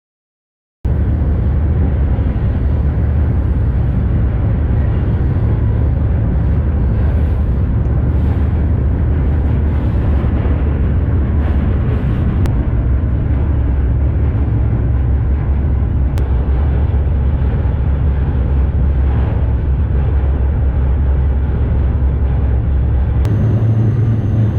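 Loud, steady rumble of a moving freight train heard from aboard it, after a silent first second.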